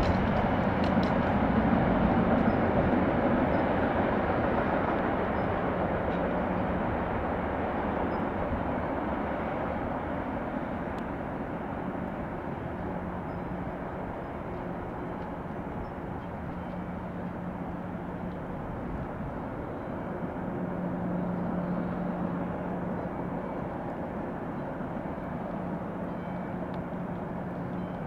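Rear cars of a mixed freight train rolling away on the rails, a steady rumble that fades over the first dozen seconds and then holds at a lower level.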